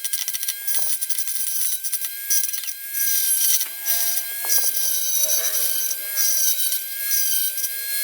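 A saw cutting through a plastic mounting tab on a motorbike body panel, with a steady high whine over a rasping cutting noise that rises and falls.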